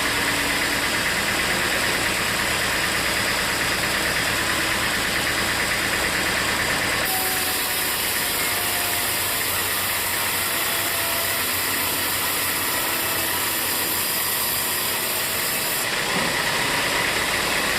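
Sawmill machinery running steadily with a loud, even mechanical noise. About seven seconds in, the sound changes suddenly to more hiss and less low rumble, and switches back near the end.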